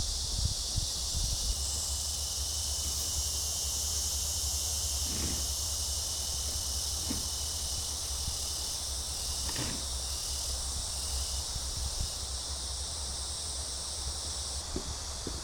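Steady, high-pitched chorus of summer insects, with a low rumble of wind on the microphone and a few faint ticks.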